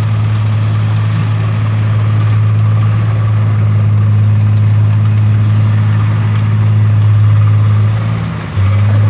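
Diesel truck engine running at a steady speed, dipping briefly near the end and then picking up again.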